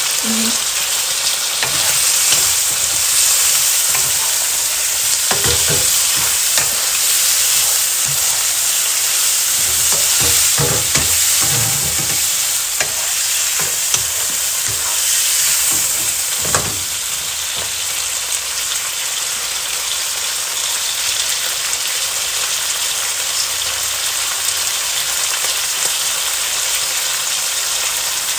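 Sliced meat and onions sizzling in a hot nonstick wok, stirred with a wooden spatula. The spatula knocks and scrapes against the pan now and then, mostly in the first half, over a steady frying hiss.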